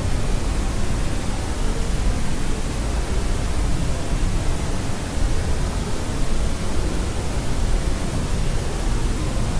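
Steady, unbroken generated noise of a white noise sleep track, even hiss with more weight in the low end than the highs, like pink noise.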